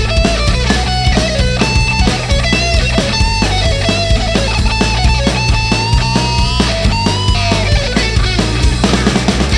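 Heavy rock band playing an instrumental break: a lead electric guitar plays a melody with bent, sliding notes over bass and a driving drum beat, with no vocals.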